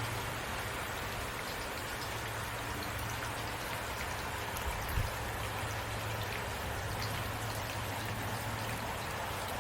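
Heavy rain falling steadily, with a low steady rumble underneath and a single brief low thump about five seconds in.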